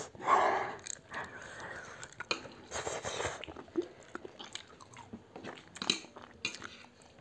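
Close-up mouth sounds of eating instant noodles and pork: irregular chewing and crunching. A louder breathy burst comes just after the start and another about three seconds in.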